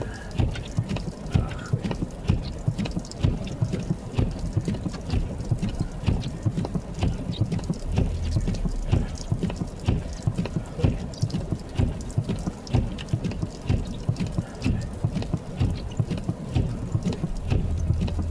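Footsteps crunching through snow at a steady walking pace of about two steps a second, over a low steady rumble.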